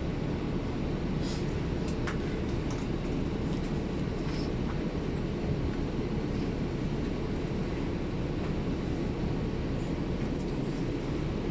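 Steady low rumble inside a city shuttle bus's cabin as it runs, with a few faint rattles and clicks.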